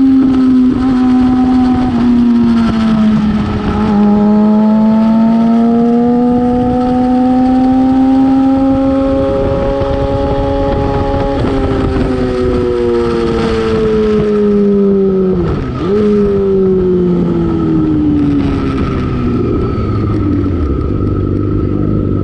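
Yamaha R6 inline-four engine on the move: its pitch drops, then climbs steadily for several seconds, dips sharply about two-thirds of the way in, and falls away to a steady low note near the end.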